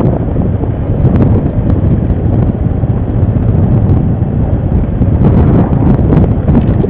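ATV engine running on a ride, with wind buffeting the camera microphone. Loud, steady rumble heaviest in the low end, with a few light ticks and rattles.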